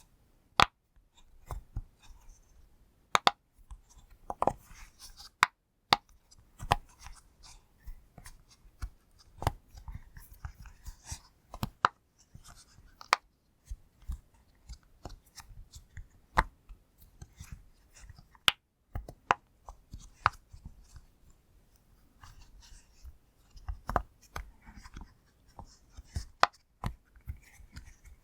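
Pop toy's bubbles being pressed and popping, sharp separate pops at an uneven pace, some in quick pairs, with soft handling noise between.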